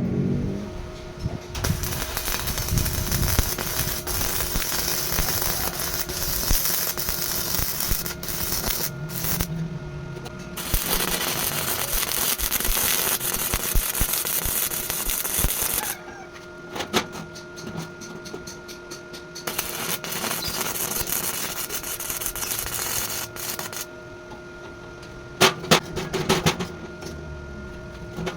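Metalworking noise: a long stretch of harsh crackling hiss over a steady machine hum. After it comes a quieter hum with scattered sharp clicks and a short cluster of bangs near the end.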